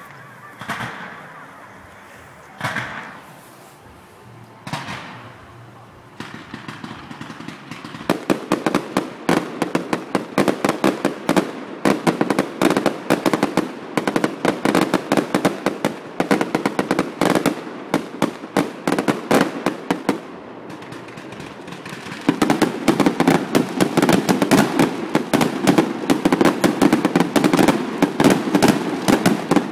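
Fireworks display: a few separate bangs, then from about six seconds in a dense, rapid crackling of many small pops. It grows louder, eases briefly about two-thirds of the way through, and is loudest near the end.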